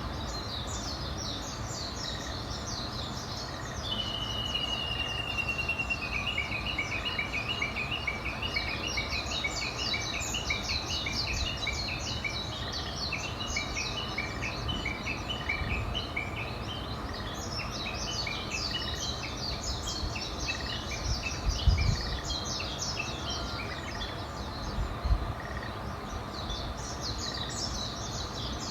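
Several songbirds chirping and singing together, one bird giving a long steady whistle and then a long run of quickly repeated notes. A steady low rumble lies underneath, with two brief thumps late on.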